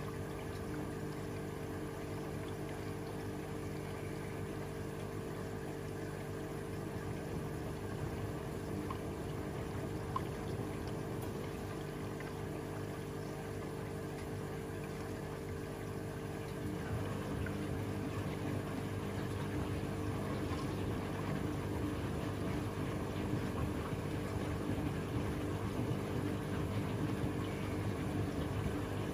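Washing machine running a wash cycle: a steady motor hum with water sounds from the drum, getting a little louder and busier about two-thirds of the way through.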